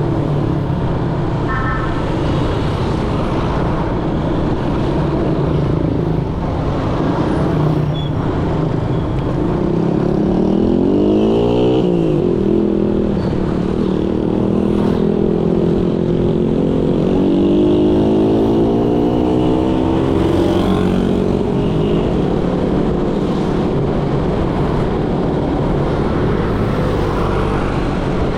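Motorcycle engine and road noise heard from the bike while riding in dense traffic. The engine note climbs under acceleration and drops sharply at a gear change about a third of the way in, then climbs again for several seconds in the middle.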